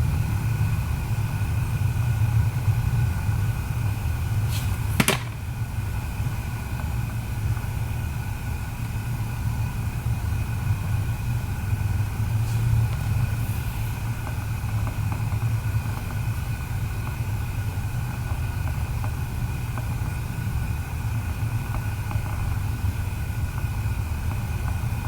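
Steady machine hum with two faint high whining tones held throughout, and one sharp click about five seconds in.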